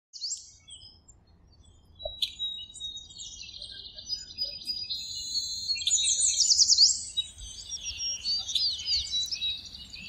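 Several songbirds chirping and singing, a mix of high quick chirps and short sweeping whistles that grows busier after the first couple of seconds.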